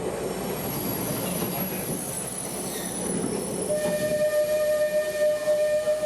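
Kominato Railway Satoyama Torokko trolley train running along the track with a steady rumble. A little past halfway, a train whistle sounds one long, steady note.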